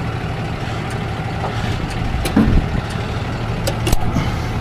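Vehicle engine idling steadily, with a few scattered clicks and knocks over it.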